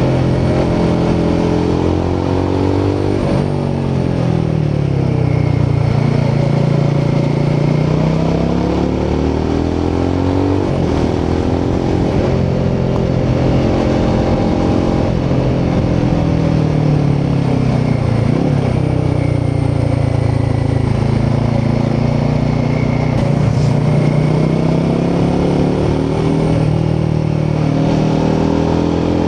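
Royal Enfield Himalayan 450's 452cc Sherpa single-cylinder engine and exhaust under riding load, the note dropping as the throttle is eased and then climbing again as the bike accelerates, about four times over.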